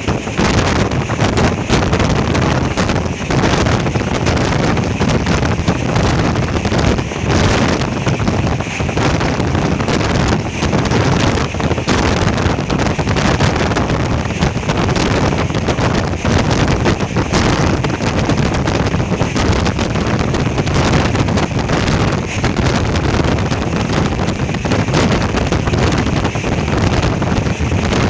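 Loud, steady rushing noise with wind buffeting the microphone, flickering constantly in level.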